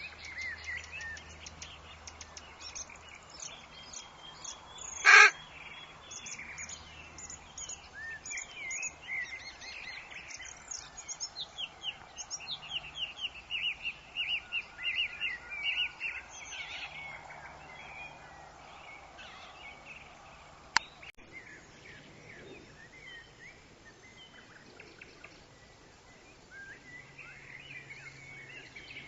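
Forest birds chirping and calling over a soft background hiss, with a fast run of repeated high notes a little past the middle. About five seconds in there is one brief, much louder burst, and a sharp click comes a little before two-thirds of the way through.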